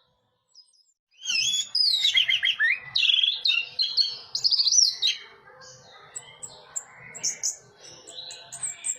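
Orange-headed thrush singing. About a second in it starts a loud, rapid run of varied whistled and warbled phrases lasting about four seconds, then goes on with softer short high chirps and calls.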